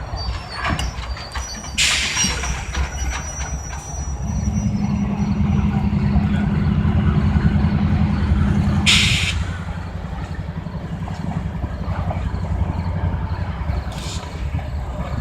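Diesel locomotive rumbling at the station, its engine running louder with a steady low tone from about four seconds in until about nine seconds. Two short sharp air hisses, about two and nine seconds in, come from the train's air brakes.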